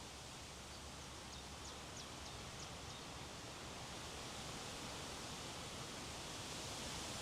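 Steady wind noise, swelling slightly near the end, with a quick run of faint high chirps from a small bird about one to three seconds in.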